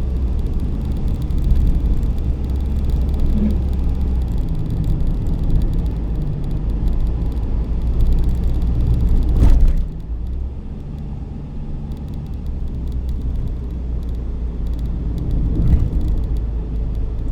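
Road vehicle running with a steady low rumble. A sharp knock comes about nine and a half seconds in, after which the rumble is a little quieter.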